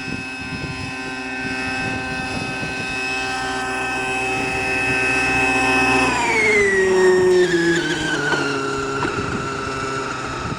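Helicopter running with a steady whine that drops in pitch about six seconds in, then holds steady at the lower pitch.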